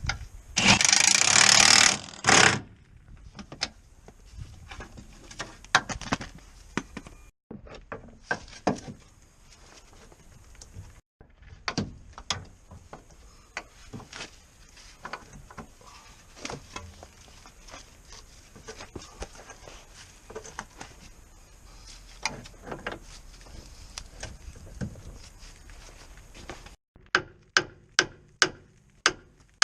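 Hand tools at work on a car during a clutch replacement: a loud hiss-like burst of about two seconds near the start, then scattered metallic clicks and knocks. Near the end comes a steady run of hammer blows, about two a second.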